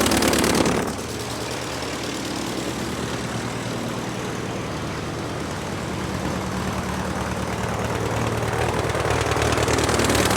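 Remote-control toy monster truck's electric motor and gears whirring steadily as it drives. The sound drops suddenly a moment in, then slowly grows louder again toward the end.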